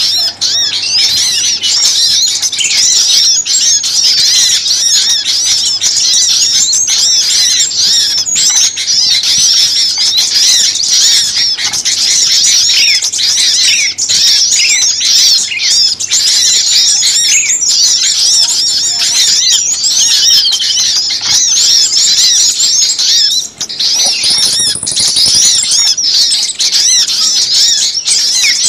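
A dense chorus of many small songbirds chirping and chattering rapidly and without pause, high-pitched and overlapping. It is a bird-lure recording of agitated small-bird calls, used to draw small birds in.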